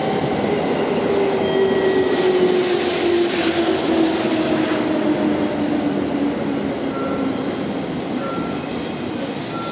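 Electric train running past, a steady rumble with a motor whine that falls slowly in pitch over several seconds and a brief hiss about halfway through.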